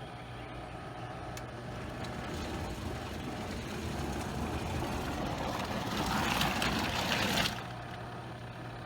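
Portable twin-tub washing machine running its wash side: a steady motor hum with water churning that swells and then stops abruptly about seven and a half seconds in.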